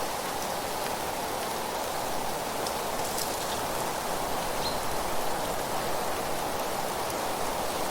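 Wind through trees and dry leaves: a steady rustling hiss with faint crackles, and a brief faint high note about halfway through.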